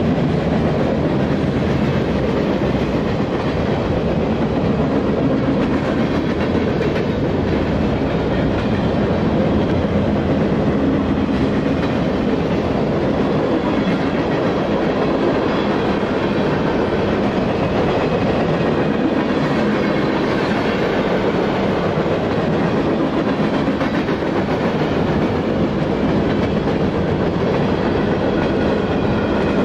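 Freight train's cars rolling past: steel wheels rumbling and clacking steadily over the rails, loud and unbroken.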